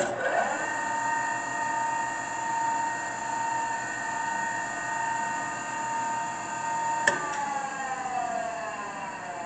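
Enco BM-450A tool and cutter grinder's half-horsepower three-phase spindle motor switched on, winding up to a steady whine within about half a second. About seven seconds in there is a click as it is switched off, and the whine falls in pitch as the spindle coasts down.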